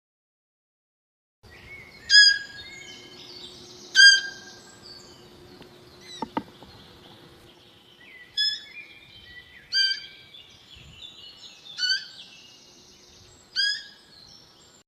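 Bird calls: after a second and a half of silence, a loud, short call repeats about every two seconds over a steady chorus of fainter chirping birds. A single sharp click sounds about six seconds in.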